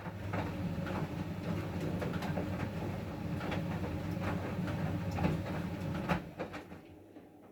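Siemens WM14VG93 washing machine's drum turning a load of bed linen, its motor humming low with irregular clicks and knocks, then stopping about six seconds in, the pause of a wash rhythm.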